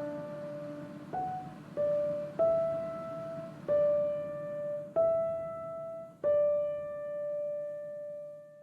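Slow solo piano melody: about six single notes struck one after another, each left to ring, the last held and dying away near the end.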